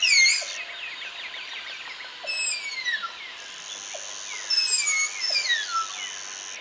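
Tapir giving several shrill, falling whistles a couple of seconds apart, over a steady high hiss of background ambience.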